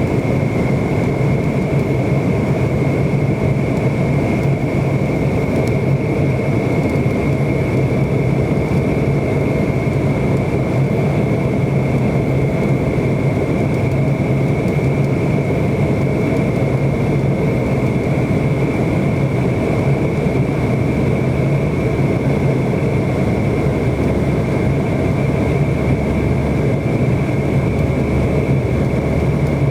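Steady jet engine noise of a McDonnell Douglas MD-90 airliner, whose rear-mounted IAE V2500 engines give a constant high whine over a low hum and a broad rush, holding level without rising or falling.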